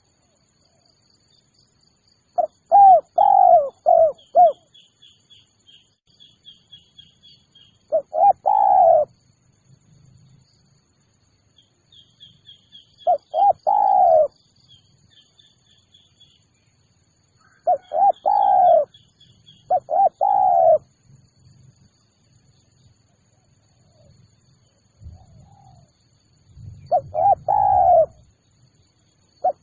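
Spotted dove (tekukur) cooing: short phrases of two to four low, arching coos, repeated about every five seconds. Faint high chirps run between the phrases.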